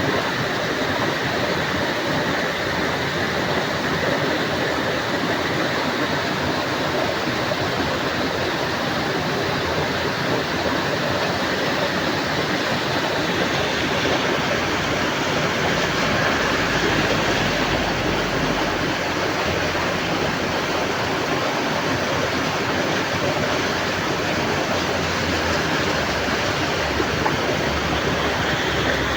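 Heavy rain falling steadily, an even, dense hiss of downpour.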